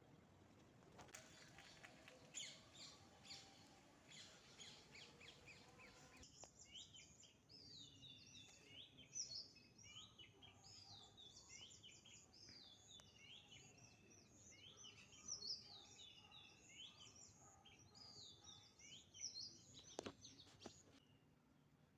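Faint chorus of small birds chirping and twittering, many short quick notes overlapping. It changes abruptly about six seconds in from a run of rapid ticking calls to a busier twittering song.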